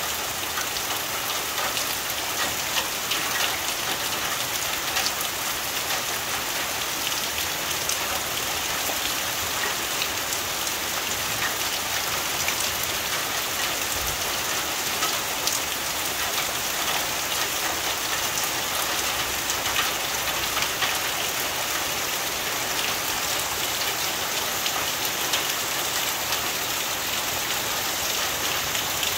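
Heavy rain falling on tin roofs: a steady, even hiss thick with many small, sharp drop strikes on the metal.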